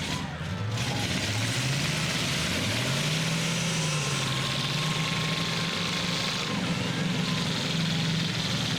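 Demolition derby trucks' engines running, with one engine revving up about three seconds in over a steady background roar.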